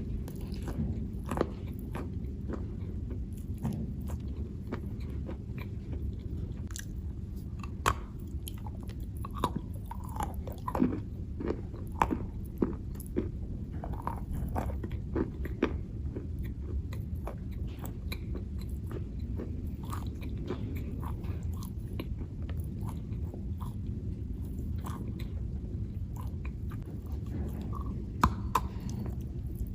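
Chalk being bitten and chewed close to the microphone: irregular crunches and sharp clicks over a steady low hum.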